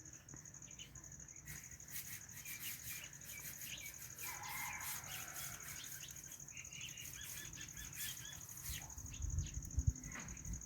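White Indian ringneck parrot chirping in short, quick calls, with a rapid run of repeated chirps about two-thirds of the way in. A steady high, pulsing trill like a cricket runs underneath. A few low thumps come near the end.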